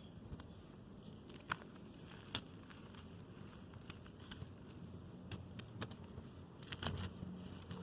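Reformed gym chalk being crushed: soft, scattered crunches and crackles over a low rustling rumble, with a few sharper snaps, the loudest cluster near the end.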